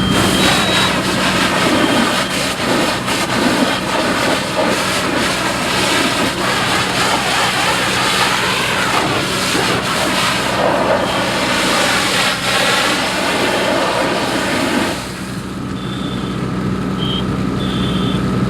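Fire engine running steadily with a constant low hum, under a loud rushing noise that drops away about fifteen seconds in. Short high beeps repeat near the end.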